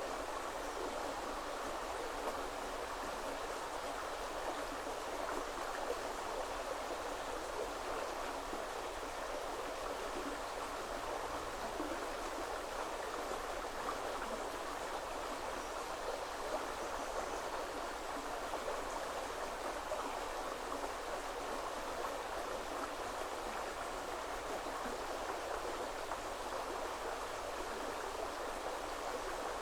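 A shallow river running over stones, a steady rushing and babbling.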